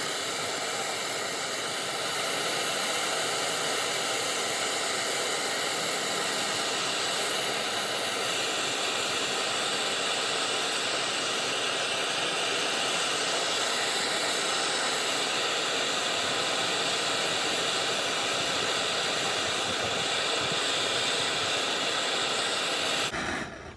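Propane torch burning with a steady hiss, heating a broken-off bolt to loosen it before extraction; the flame is shut off suddenly near the end.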